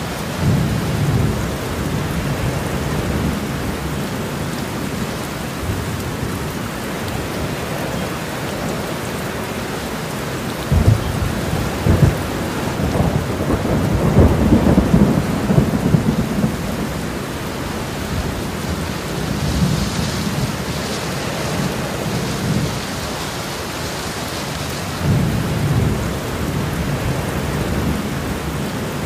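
Steady rain hiss, with low rumbles that swell about a third of the way in, build through the middle, and come back near the end.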